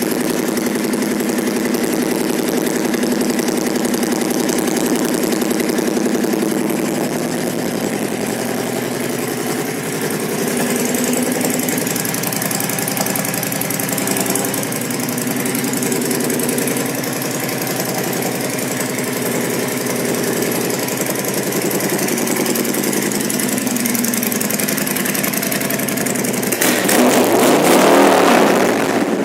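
Honda VT1300 Stateline V-twin engine idling steadily through aftermarket Cobra exhaust pipes with a low growl. Near the end it gets briefly louder and rougher for about two seconds.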